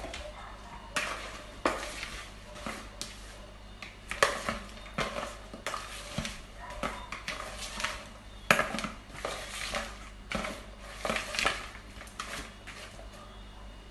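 Kitchenware being handled: irregular clinks and clatters of pots, dishes and metal utensils, with scraping like a spoon working in a pot. The sounds thin out near the end.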